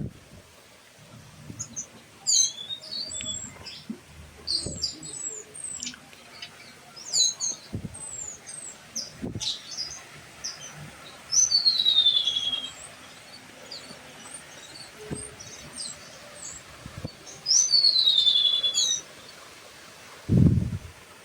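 Wild birds singing: many quick high chirps and whistles, and twice a louder, longer phrase that slides down in pitch, about eleven and seventeen seconds in. A few dull low thumps come in between, the loudest near the end.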